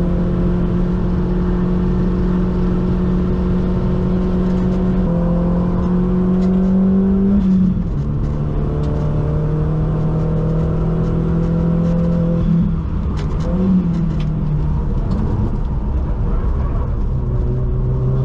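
Mk1 Audi TT quattro's engine heard from inside the cabin under hard acceleration. The engine note climbs slowly, then drops in pitch at a gear change about halfway through and again near the end, with a brief rise and fall between them.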